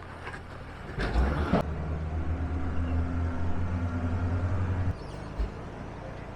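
Jeep engine running under light load as it crawls over trail rocks, with a brief rough scrape or crunch about a second in. The engine's steady drone falls away just before five seconds in, followed by a single low thump.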